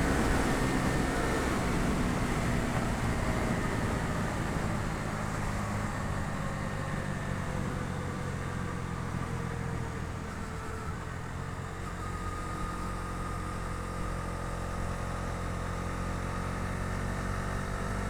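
Bajaj Dominar 250's single-cylinder engine running as the motorcycle slows, its note falling gently and the wind noise fading over the first several seconds. It then settles to a steady, lower running note.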